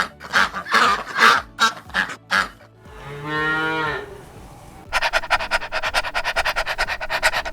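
Cow mooing once, a single low call about three seconds in, between other farm-animal calls: a run of short sharp calls before it and a fast, even rattling call near the end. Soft background music runs underneath.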